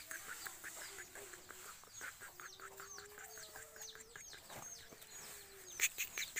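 Birds chirping: many short, high chirps, each falling in pitch, repeated several times a second. A few sharp knocks come near the end.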